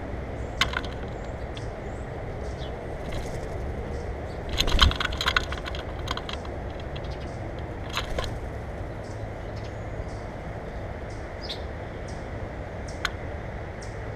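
Birds at a feeder: sharp clicks and taps on the feeder, with a quick burst of rapid clicking about five seconds in and a few short faint chirps, over a steady low rumble.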